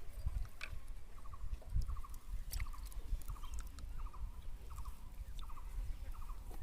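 A small animal calling in short chirping trills of three or four quick pulses, repeated roughly twice a second, over a low rumble with a few sharp clicks.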